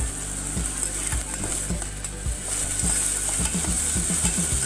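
Chopped onions sizzling in hot oil in a steel pot while a metal slotted spatula stirs them, its strokes knocking and scraping against the pot. The sizzle grows louder about halfway through, and the strokes come quicker near the end.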